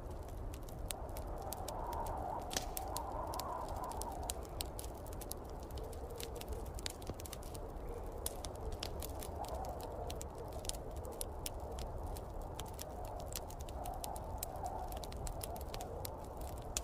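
Wood fire crackling with many irregular sharp pops, over a steady low rumble and snowstorm wind that swells and eases every few seconds.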